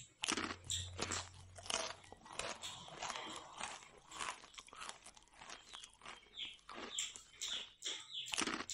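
Close-up chewing and crunching of crisp fried puri bread, a quick irregular run of crisp crunches and mouth sounds.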